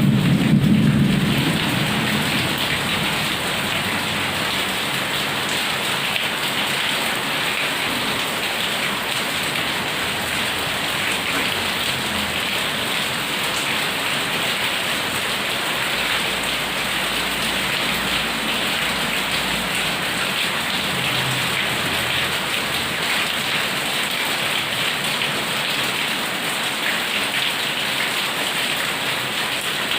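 Heavy rain pouring steadily, with the tail of a low thunder rumble dying away in the first second or two.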